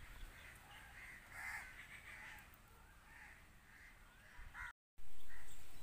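Faint bird calls, short cries repeated every half second to a second, over a low background rumble. Near the end the sound drops out for a moment, and a louder rush of noise follows.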